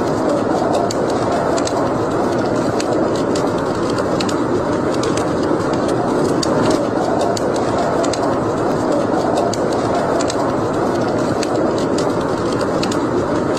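Wood fire burning in a fireplace: a steady rushing rumble of flames with frequent small sharp crackles and pops scattered throughout.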